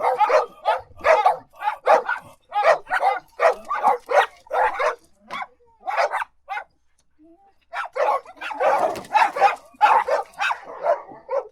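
A dog barking over and over in short, sharp barks, about two a second. The barking stops for about a second past the middle, then resumes in a denser run.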